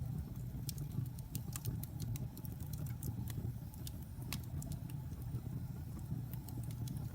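Wood fire in a fireplace crackling: irregular sharp pops and snaps over a steady low rumble of the burning logs.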